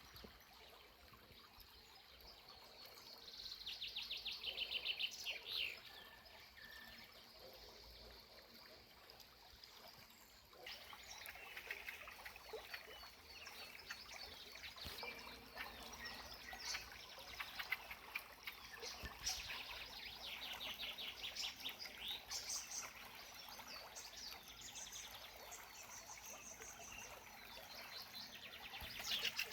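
Several songbirds singing: rapid trilled phrases repeated over and over, few at first and many from about a third of the way in. Under them runs a faint, steady trickle of a small spring.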